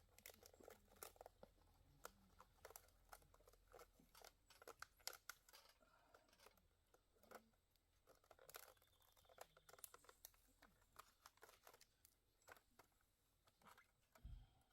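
Campfire burning with faint, irregular crackles and small pops from the wood.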